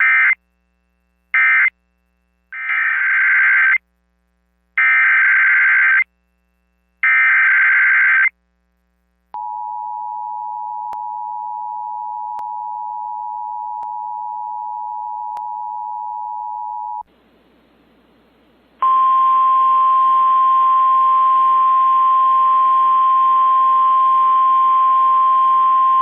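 Emergency alert signalling from a weather radio broadcast. First come five short buzzing SAME digital header bursts. Then a steady two-note EAS attention tone sounds for about eight seconds. After a moment of static, the single steady NOAA Weather Radio warning alarm tone sounds over hiss, announcing a new warning.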